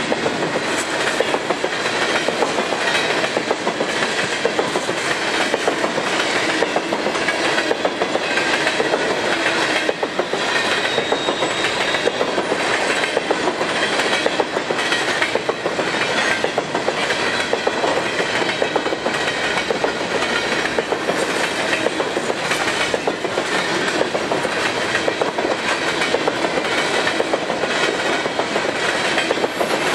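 Freight train of empty potash cars rolling past, the wheels clicking over the rail joints in a steady repeating rhythm.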